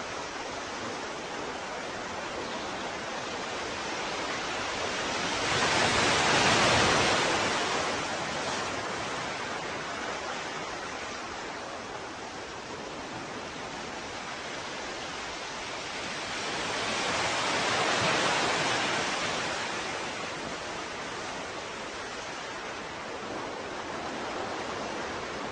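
Ocean waves washing in. There is a steady hiss of surf, with two waves swelling and fading, one about six seconds in and another around eighteen seconds.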